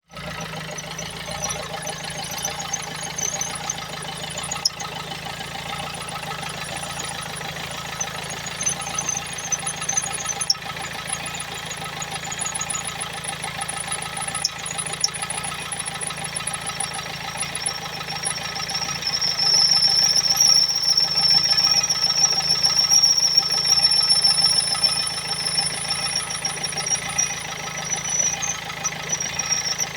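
Engine idling with a high-pitched whistle coming from it. The whistle grows louder and steadier about two-thirds of the way through.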